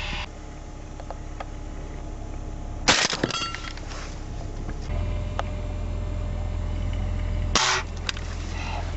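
Two shotgun shots fired at migrating turtle doves, about three seconds in and again near the end, each a sharp report. A steady low rumble runs underneath and grows louder about halfway through.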